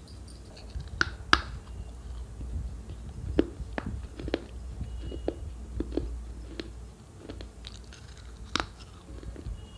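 A person chewing and biting into flatbread: a run of short, sharp mouth clicks and snaps, the loudest about a second in and again near the end.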